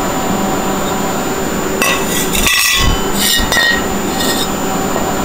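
Metal clinking and light knocks from steel engine pulleys being handled, a handful of ringing clinks between about two and four and a half seconds in, over a steady background noise.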